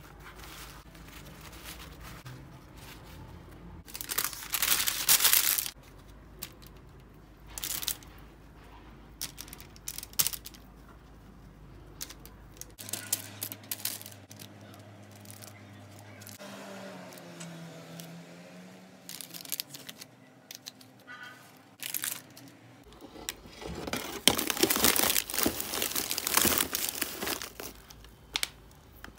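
Rustling and crinkling handling sounds, like paper or packaging, with two louder stretches about four seconds in and again near the end, and scattered light clicks and taps between.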